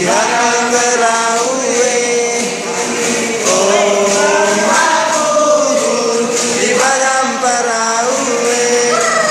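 Group of voices singing together in a chant-like song, with long held notes that slide between pitches.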